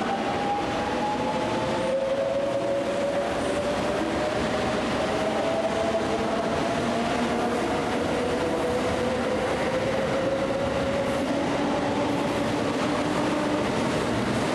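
Electric train moving through a station: steady rail running noise, with a whine that rises slowly in pitch over several seconds.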